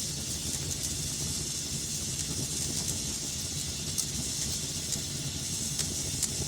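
Wood fire burning in a fireplace: a steady low rumble and hiss with a few sharp, scattered crackles and pops.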